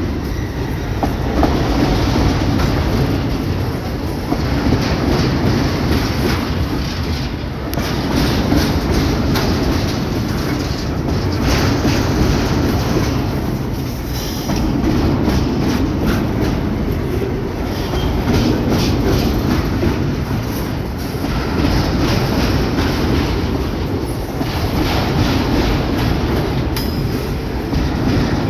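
Freight train cars rolling past, wheels clacking over rail joints with a steady rumble that swells and dips every few seconds.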